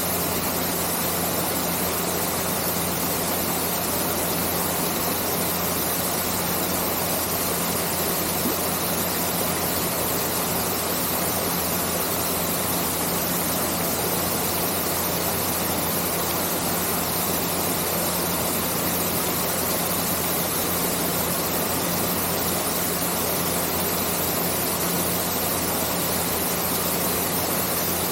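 Artificial rock waterfall pouring steadily into a pool, an even rushing of falling water with a steady low hum underneath.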